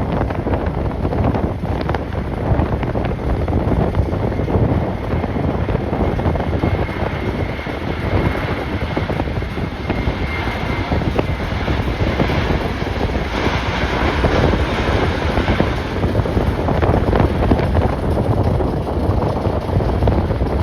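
Jet airliner engines running, heard through strong wind buffeting the microphone, with a faint high engine whine in the middle.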